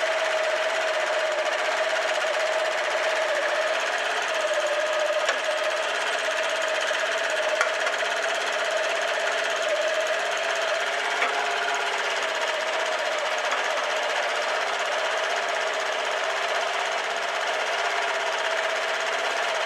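Honda Spacy 250 Freeway scooter engine running steadily, with a fast mechanical rattle and a slightly wavering tone.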